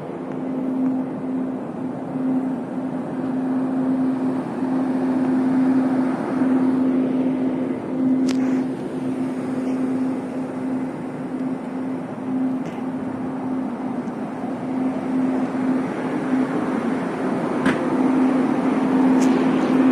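Steady hum of a passenger train standing at a station, heard inside the carriage: a constant low drone tone over a rumbling hiss, with a few sharp clicks scattered through.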